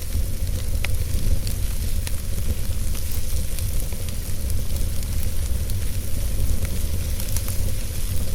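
Wood fire burning in a fireplace: a steady low rumble and hiss with scattered small crackles and pops.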